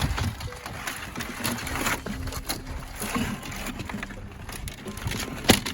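Irregular knocks and clatter of live crabs and gear being handled on a fishing boat, over a faint steady low hum, with one sharp knock near the end.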